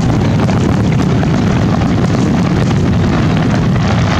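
Fireworks finale barrage: many aerial shells bursting in quick succession, their booms running together into a steady, loud rumble with dense crackling on top.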